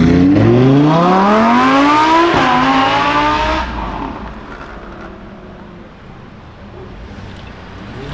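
Sports car engine revving hard as the car accelerates away, its pitch climbing, dropping at an upshift about two seconds in, then climbing again before fading into the distance.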